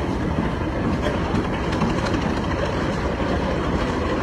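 Antique gas tractor engine running steadily as it passes in a parade, with outdoor background noise.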